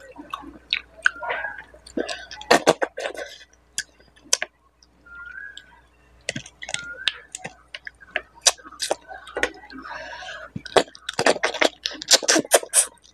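Close-miked chewing and lip-smacking of a person eating fish head curry and rice by hand, with wet mouth clicks coming in irregular clusters that grow dense near the end.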